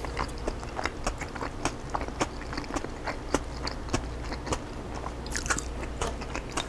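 Close-up chewing of a crunchy chicken salad with cabbage, jalapeños and green onions: a run of short, irregular wet crunches and mouth clicks, a few each second.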